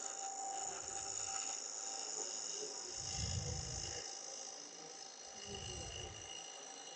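Wood lathe running with a steady high whine, while a gouge cuts intermittently into a log blank for a bird's mouth vase, giving three low rumbling passes about a second each. The cut comes and goes because the tool is partly cutting air on the uneven tip of the blank.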